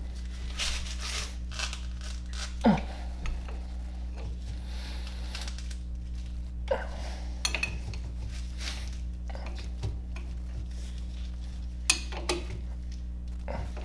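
Metal tools and parts clinking and knocking now and then during brake work, over a steady low hum.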